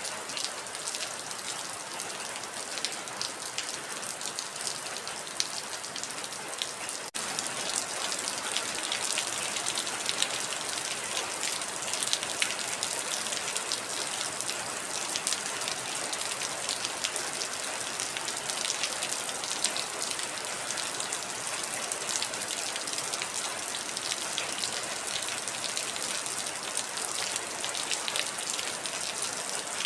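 Heavy rain falling steadily, a dense patter of drops. About seven seconds in there is a momentary break, and after it the rain is a little louder.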